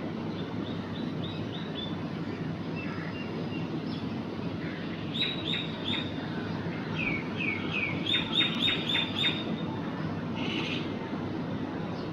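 Bird calls: runs of short, high chirps repeated quickly, three to seven in a row, with a few seconds between runs. A steady low rumble runs underneath.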